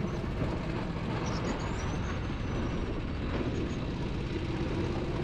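Go-kart engines running steadily on the track, with wind noise on the microphone.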